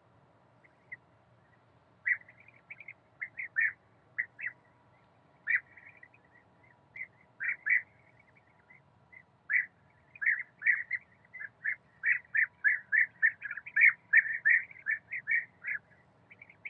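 Birds calling: a string of short, sharp calls that begin about two seconds in, come a few at a time at first, then follow one another quickly through the second half.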